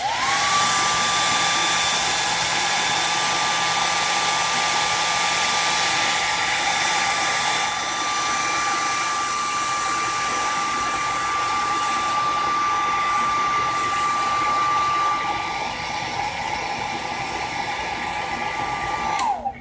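Hair dryer switched on and running steadily, its fan noise carrying a whine that rises as the motor spins up at the start and falls away when it is switched off near the end.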